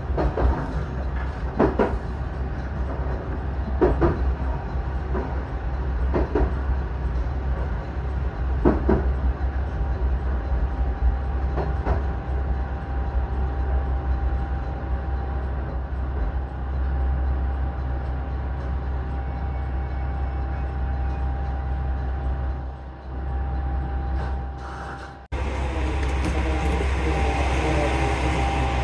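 2000 series diesel tilting express train running on the line, heard from inside the car: a steady low rumble with a few rail-joint clacks in the first dozen seconds, then a faint steady whine. Near the end the sound cuts off abruptly and comes back louder, with sliding engine pitches.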